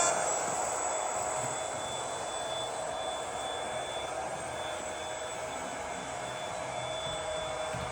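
Model locomotive's onboard sound unit playing a steady diesel engine running sound through its tiny speaker, with a thin high whine over it, as the train runs round the track; a horn sound cuts off right at the start.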